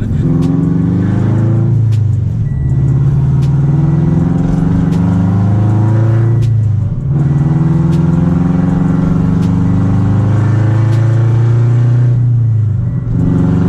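Scion FR-S flat-four boxer engine on unequal-length headers, open after the stock front pipe with no muffler or resonator, very loud. It pulls with its pitch climbing steadily, drops off briefly at a shift about two seconds in, near the middle and near the end, and climbs again after each.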